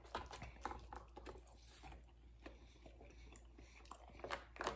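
A man chewing a mouthful of omelette and potatoes, with small wet mouth clicks and a fork tapping and scraping in a plastic takeout tray. The sound is faint and scattered, with a few louder clicks near the end.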